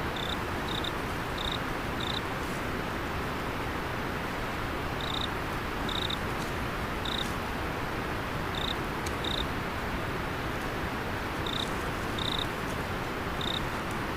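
Steady rush of river water, with a cricket giving short, high chirps, singly or in pairs, every second or so, pausing for a few seconds now and then.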